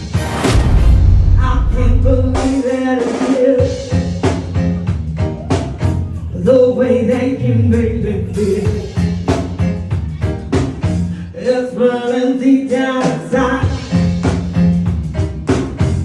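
Live band playing an upbeat song on drum kit and bass, with a singer.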